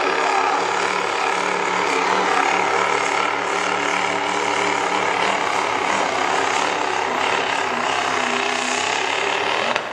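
Diesel pickup truck engine running hard at high, steady revs while pulling the sled. The sound cuts off abruptly near the end.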